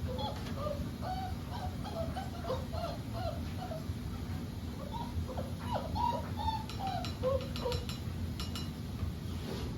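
Boerboel dogs whining, many short rising and falling whines overlapping one another, over a steady low hum. A few light clicks or knocks come in the second half.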